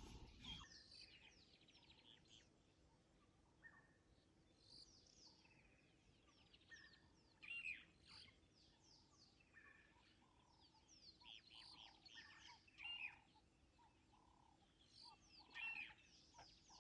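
Faint birdsong: several birds calling on and off with short, falling chirps and whistles.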